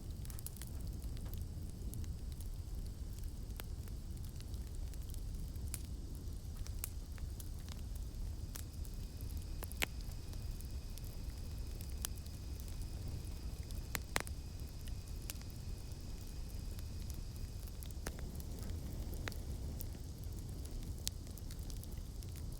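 Campfire burning with a steady low rumble of flame and scattered sharp crackles of burning wood, two louder pops about ten and fourteen seconds in. A faint steady high drone of night insects sits in the background.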